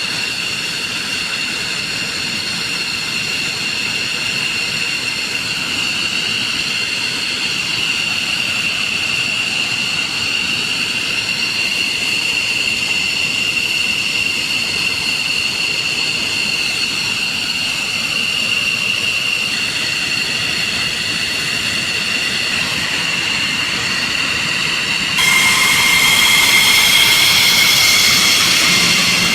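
F-15 fighter jet engines whining steadily in a high, even pitch over a rush of exhaust noise. About 25 s in, a sudden cut brings a louder jet whine at a different pitch.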